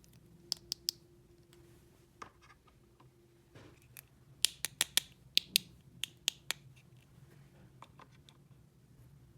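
Sharp, separate clicks and taps of small hard parts being handled: three quick clicks near the start, then a faint scrape and a run of about a dozen clicks between about four and a half and six and a half seconds in.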